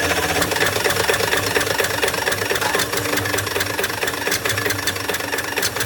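Rebuilt truck diesel engine running steadily at idle with a fast, even knocking beat.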